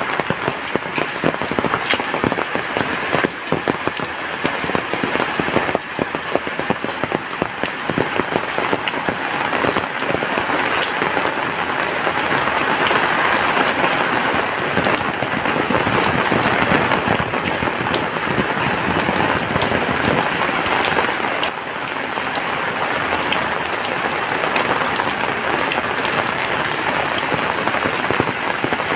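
Heavy rain falling steadily, a dense hiss of rain with many separate drop hits ticking on surfaces throughout.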